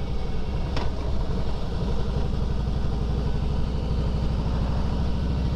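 Harley-Davidson Fat Boy Lo's V-twin engine running steadily while riding at low speed, with a short sharp sound about a second in.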